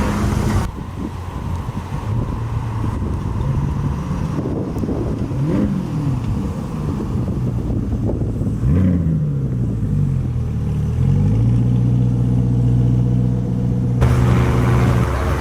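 Car engine running, revved twice, each rev rising and dropping quickly, then holding a steady note.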